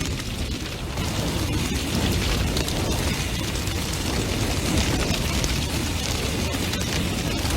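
Large bonfire burning hard: a steady deep roar of flames with dense, continual crackling and popping.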